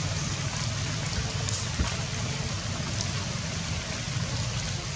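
Steady hiss of rain falling, with a low rumble underneath; a single sharp knock a little under two seconds in.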